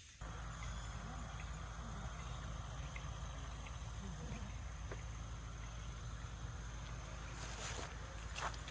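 Autumn insects chirping steadily over a low, constant rumble, with a few light clicks near the end.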